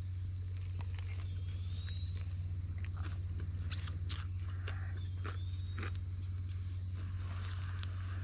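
Steady, high chorus of insects, with a steady low hum underneath and scattered light clicks and taps.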